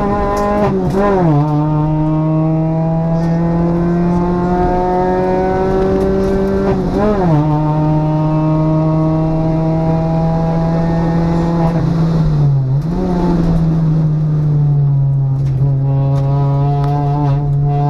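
Citroën DS3 R1 rally car's engine pulling hard, heard from inside the cabin. The revs climb steadily and drop at upshifts about a second in, about seven seconds in and near fifteen seconds, with a brief lift and pick-up around twelve seconds.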